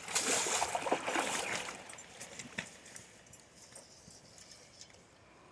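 Water splashing and sloshing for about two seconds, then fading to a few faint ticks and drips.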